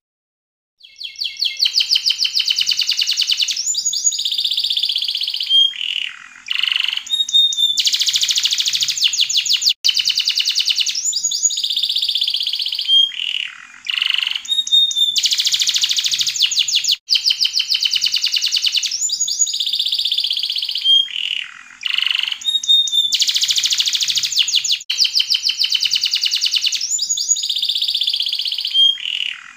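Yellow domestic canary singing: long phrases of rapid, high trills broken by short downward-sliding notes, with a brief pause every six or seven seconds. The song starts about a second in.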